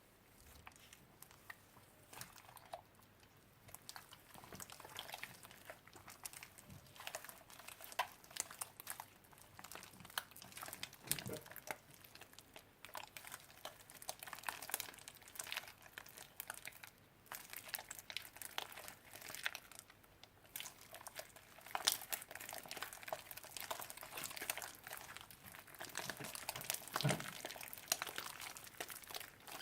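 Slime being handled and squished by hand: a dense, irregular run of small sticky crackles, pops and crinkles.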